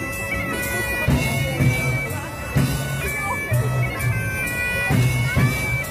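Bagpipe music: a steady drone under a melody of held notes that step up and down, with a deep drum thumping now and then.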